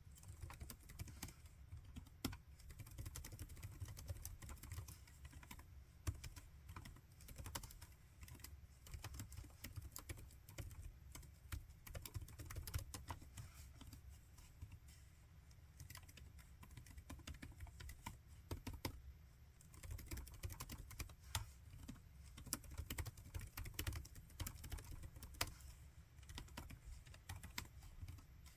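Typing on a laptop keyboard: a steady run of quick, irregular key clicks with a few louder taps.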